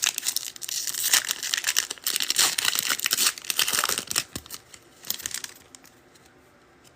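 Football card hobby packs being torn open, their foil wrappers crinkling and tearing. The busy rustling lasts about four and a half seconds, then thins to a few faint rustles.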